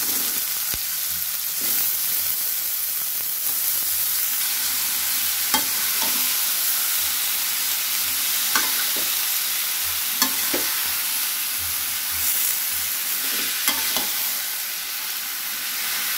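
Shredded green papaya sizzling in a wok of fried spice paste, stirred with a fork and a slotted metal spatula that now and then clink and scrape against the pan.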